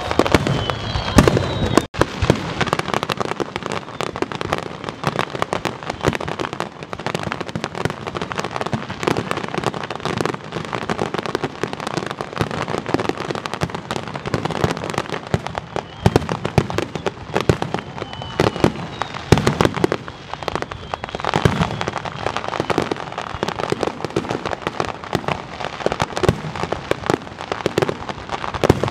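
Aerial fireworks bursting in rapid succession, with a dense crackle of many small bangs between the louder booms. A couple of whistles sound near the start.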